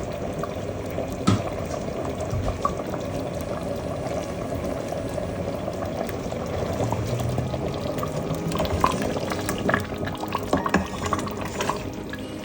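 Pot of qurma sabzi, a Persian herb stew, simmering, with a steady bubbling and scattered small pops.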